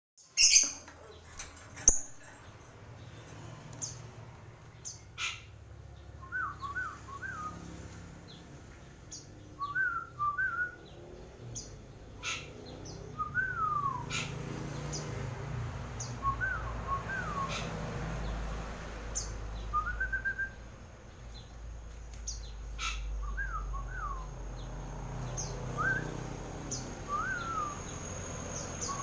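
A bird's short whistled chirps, each a quick looping phrase, repeated every two to three seconds, with scattered sharp clicks in between.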